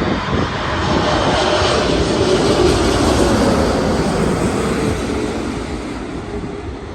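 Lufthansa Boeing 747-8 jet airliner passing low overhead on landing approach, its four GEnx engines giving a loud rushing roar. The roar swells to a peak about three seconds in and then fades, with a tone that slides slowly down in pitch as it goes by.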